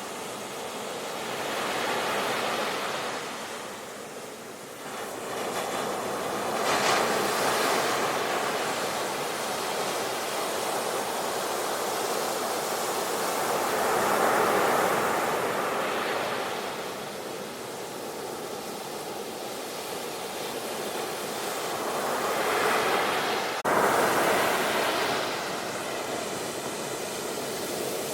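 Sea waves breaking and washing on the shore, swelling and fading every several seconds. A sudden break with a jump in level comes about three-quarters of the way through.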